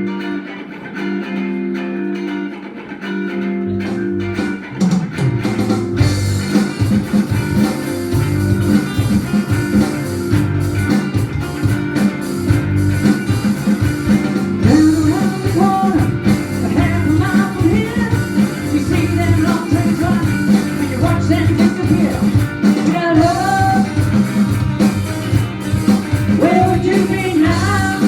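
A live band playing an instrumental passage. Held guitar chords open it, bass comes in about four seconds in and drums about six seconds in, and a gliding lead line plays over the band in the second half.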